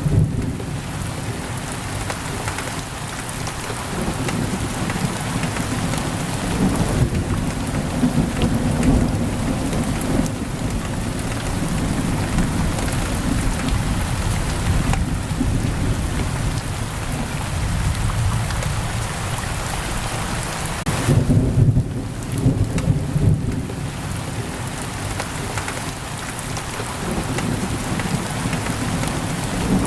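Heavy rain pouring steadily on a window, under a low thunder rumble that swells briefly about two-thirds of the way through.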